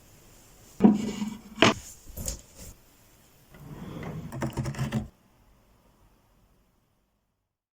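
A few sharp knocks and clicks of household objects being handled, then a rustling clatter that cuts off about five seconds in.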